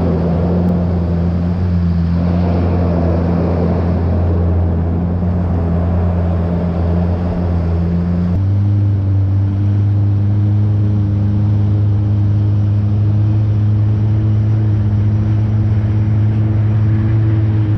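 Yamaha WaveRunner personal watercraft engine running steadily at cruising speed, a constant drone with rushing water and wind noise. About eight seconds in, the drone steps up to a slightly higher pitch.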